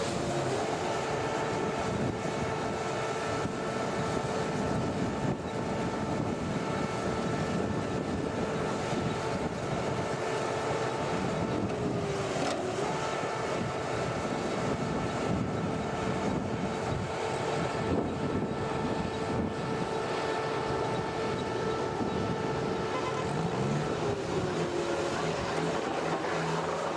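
Engine of a heavy machine running steadily with a constant whine. Its pitch dips briefly about halfway through and again near the end, as the load changes.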